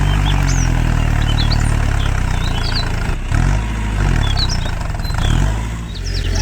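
Engine running steadily, its pitch dipping and rising a few times midway, with small birds chirping high above it.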